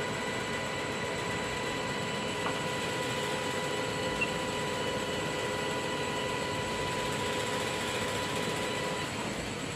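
Milling machine running steadily: an even mechanical noise with a constant high whine over it. The whine stops shortly before the end while the running noise carries on.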